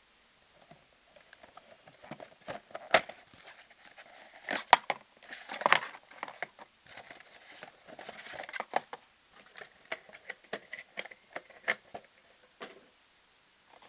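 A trading-card box and its packs being handled: crinkling wrapper, cardboard rustling, and a scatter of sharp taps and clicks, the loudest a few seconds in.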